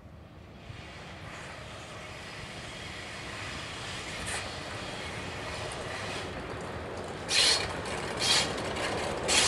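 Approaching train hauled by an electric locomotive, its running noise growing steadily louder. Near the end come loud, sharp bursts of wheel-on-rail noise about a second apart as the locomotive draws near.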